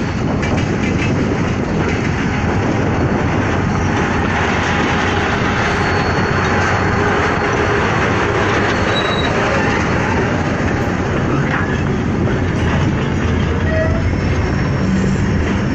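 Freight train wagons rolling on the rails during switching moves: a steady, loud rumble of wheels on track, with a few brief faint high squeals.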